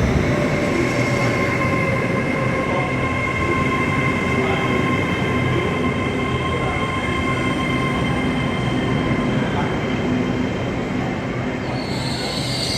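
Avanti West Coast Class 807 electric train running into the platform, with a steady electric whine over the rumble of the wheels. A high squeal of wheels or brakes sets in near the end as it slows.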